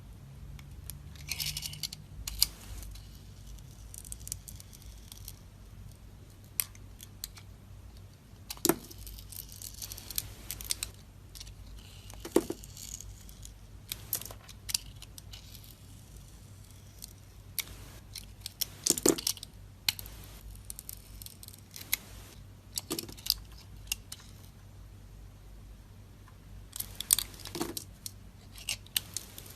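Knife cutting into a bar of dry soap: irregular crisp crunches and scraping crackles, one cut every second or two, over a steady low hum.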